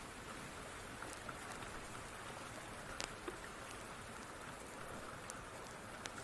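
Steady rain with the scattered sharp crackles and pops of a wood fire, a few louder pops about three seconds in.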